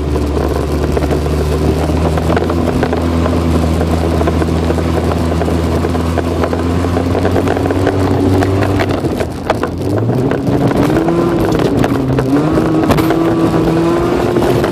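Honda CR-V's four-cylinder engine heard from inside the cabin, running at a steady pitch, then easing off briefly about nine seconds in and revving up again with a rising, wavering pitch. Knocks and rattles from the car bouncing over a snow-covered track come through along with it.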